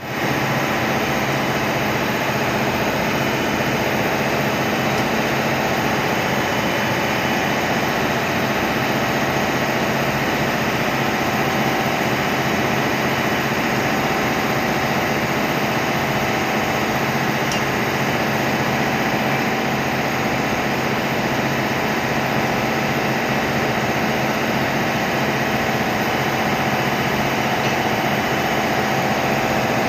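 Loud, steady drone of running ship's machinery with a few constant hum tones, unchanging throughout.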